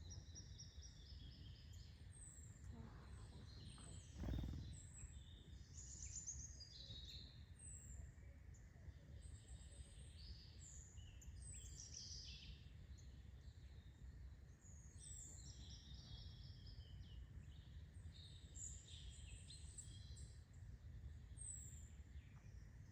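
Several small birds chirping and calling, many short high chirps, often sliding downward, overlapping throughout, over a steady low background rumble. A single dull thump about four seconds in.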